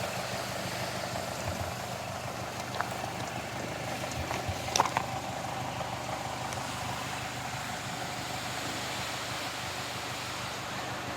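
2006 Mazda 6 MPS's turbocharged 2.3-litre four-cylinder engine idling steadily, with a couple of sharp clicks, the loudest about five seconds in.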